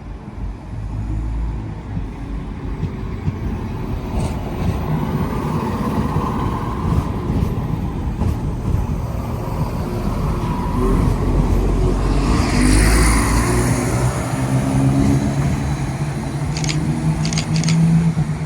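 A diesel train's engine running and growing louder, with a rush of hiss about twelve seconds in and a few sharp ticks near the end.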